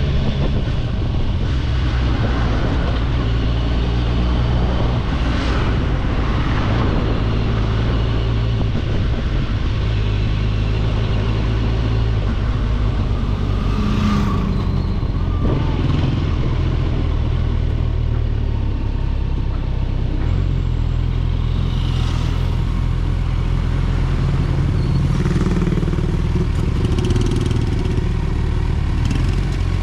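Motorcycle engine running steadily under way, its pitch stepping up and down a few times, with a couple of brief sharper noises mixed in.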